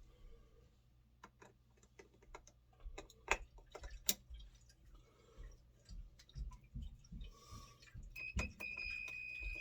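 Scattered clicks and light handling knocks as a circuit breaker finder's connectors are handled. About eight seconds in, the finder starts a steady high-pitched beep that holds to the end.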